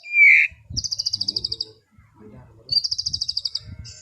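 White-rumped shama (murai batu) singing. A loud slurred whistle comes at the start, then two fast, high trills of rapid repeated notes, each lasting about a second.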